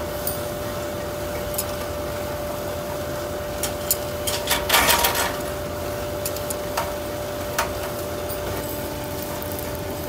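Forging-workshop machinery running with a steady hum and one constant tone, with scattered sharp metal knocks and clanks, a loud cluster of them about halfway through.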